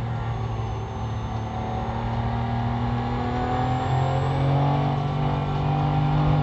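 Porsche GT3's flat-six engine at full throttle, heard inside the cabin. It holds steady revs, then climbs from about 4,700 to nearly 6,000 rpm through the second half as the car accelerates out of a corner.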